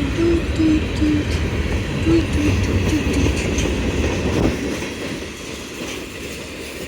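Long CSX freight train rolling past, with a steady rumble of its cars' wheels on the rails that eases slightly near the end.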